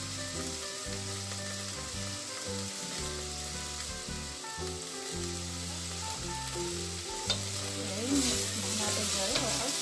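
Chicken with garlic, onion and tomato sizzling in hot oil in a wok, the sizzle swelling louder near the end, with a single sharp knock about seven seconds in.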